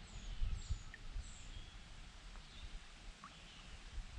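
Small birds chirping faintly, a few short high chirps in the first second and a half and fainter ones after, over a low rumble.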